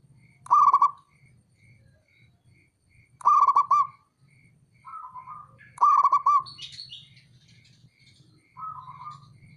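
Zebra dove (perkutut) cooing in short, rapid, trilling phrases, three loud ones a few seconds apart, with fainter coos of the same kind in between.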